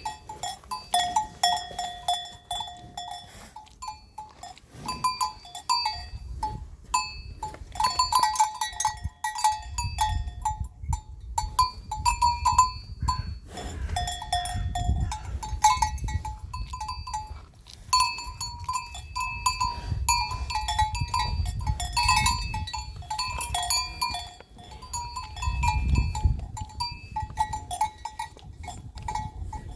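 Several bells worn by grazing water buffalo clanking irregularly, one overlapping the next, over a low rumble that swells and fades twice.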